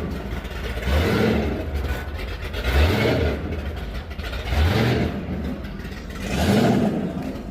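Car engine revved over and over, a surge about every two seconds with the pitch rising on each blip of the throttle.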